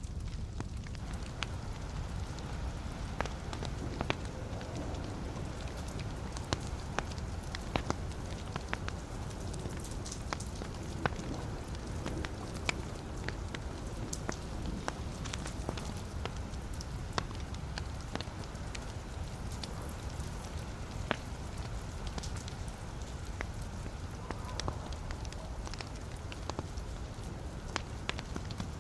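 Logs burning in a fireplace, crackling with irregular sharp pops and snaps over a steady low rumble of the flames.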